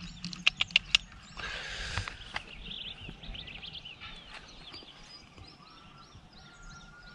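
Birds chirping and whistling over faint outdoor background noise. A few sharp clicks and a short rustle come in the first two seconds.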